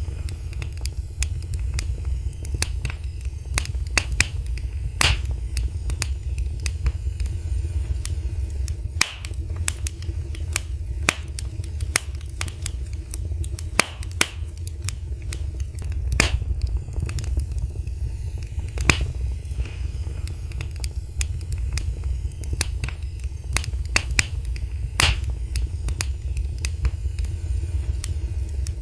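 Wood fire in a fireplace crackling: irregular sharp pops and snaps of varying loudness over a steady low rumble of the flames.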